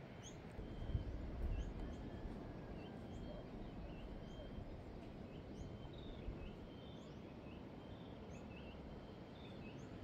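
Faint outdoor ambience with small birds chirping, short high calls repeating about every half second, over a soft steady hiss. There is a brief low rumble about a second in.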